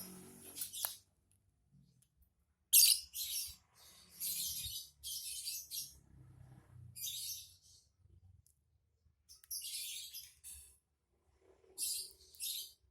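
Lovebird giving harsh, high-pitched chattering calls in a string of short bursts with pauses between them: the 'ngekek' chatter that keepers prize in a lovebird in full song.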